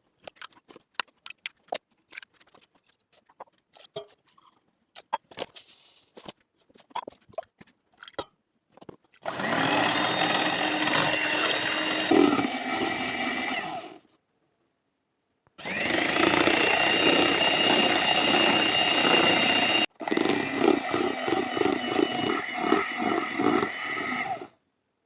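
Scattered clicks and taps, then a small electric kitchen appliance motor running steadily in three stretches of about four to five seconds each, with short stops between them.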